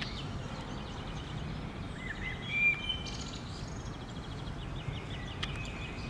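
Birds calling: short chirps and rapid trills, with one louder whistled call about two and a half seconds in, over a steady low background rumble.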